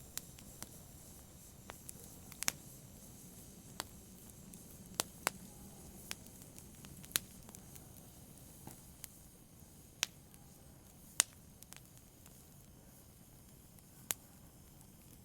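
Wood fire burning in a fireplace: sharp, irregular crackles and pops, roughly one every second or two, over a low steady hiss.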